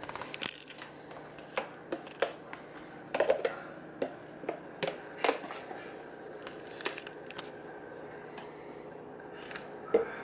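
Kitchen handling noise: a dozen or so scattered clinks and taps of utensils and containers, with a few louder knocks around three and five seconds in.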